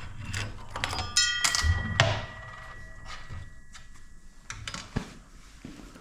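Metal parts and tools clinking and knocking during motorcycle front-end assembly; one struck metal part rings clearly about a second in and keeps ringing for a few seconds.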